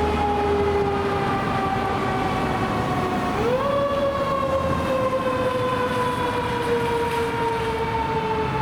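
Fire truck siren wailing. Its pitch climbs quickly about three and a half seconds in, then slowly falls.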